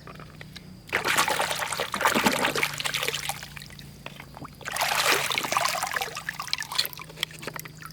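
Water pouring and splashing in two stretches of a couple of seconds each.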